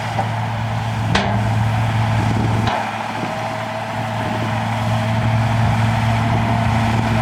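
Heavy diesel engine of earthmoving machinery running steadily, with a sharp knock about a second in.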